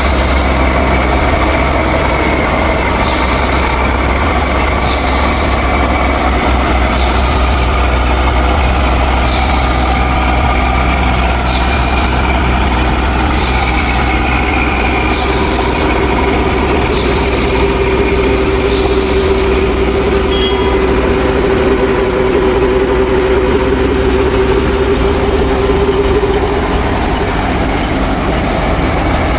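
Mini tractor and thresher machine running steadily with a deep hum. Faint ticks come about every second or so through the first two-thirds, and a steady tone joins in the second half.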